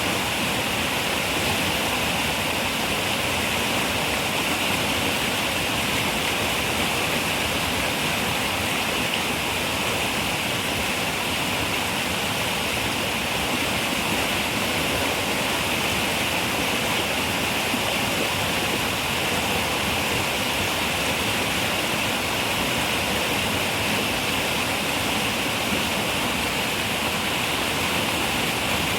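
River water running and rushing over rocks: a steady, even wash of sound with no breaks.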